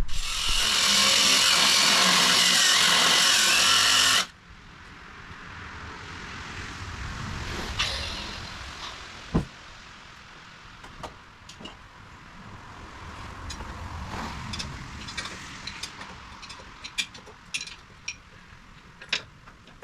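Power tool with a cut-off wheel cutting through a steel weld, running loud for about four seconds and then stopping suddenly. Quieter scraping noise and a few light clicks and knocks follow.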